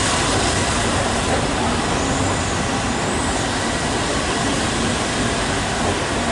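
Flying Scotsman, an LNER Class A3 4-6-2 steam locomotive, hissing steam while standing: a loud, steady, even rush of noise.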